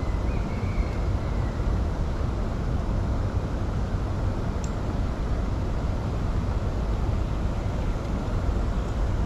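Steady low rumbling outdoor noise with no clear single source, with a faint short high warble in the first second or two and a faint tick about halfway through.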